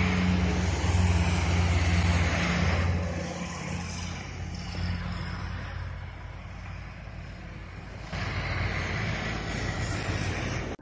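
Passenger train running away along the track, a steady low rumble with the hiss of its wheels on the rails, loudest at first and fading after about three seconds. A rushing noise rises again about eight seconds in.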